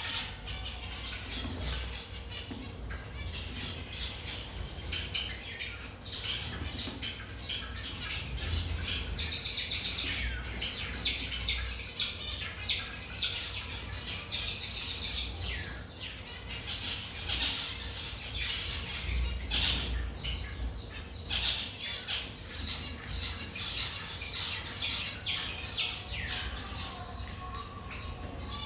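A flock of cage birds chirping and squawking, many short overlapping calls at once, over a low rumble.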